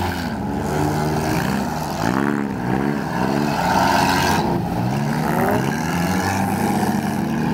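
Several demolition derby car engines running at once, revving up and down in repeated rising and falling swells as the cars manoeuvre and ram each other.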